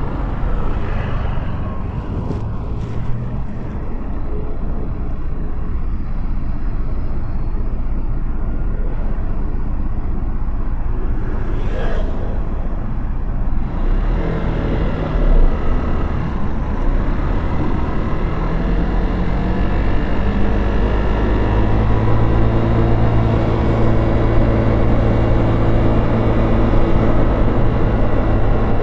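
Motorcycle engine running under way in city traffic, with wind and road noise; the engine note shifts in pitch and grows louder in the second half.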